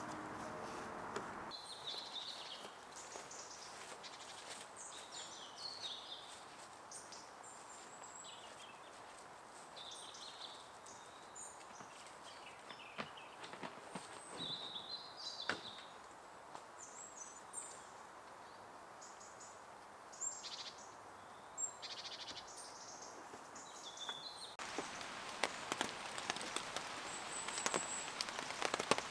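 Small birds chirping and calling in short high notes over a faint outdoor background. Near the end this gives way abruptly to the steady hiss of falling rain.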